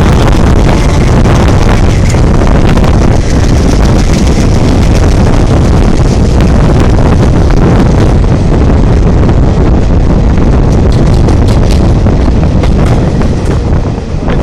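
Express train hauled by a WDM-3A diesel locomotive running past close by and gathering speed: a loud, steady, deep rumble with wind buffeting the microphone, and short clattering knocks from about halfway on.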